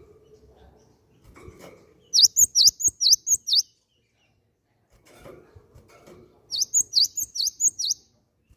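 Great tit (gelatik batu) singing: a phrase of about seven quick, high, repeated notes, then after a pause of about three seconds a second phrase just like it.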